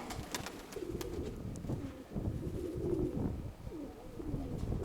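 Domestic pigeons cooing, a repeated wavering coo, over a low rumble of strong wind on the microphone.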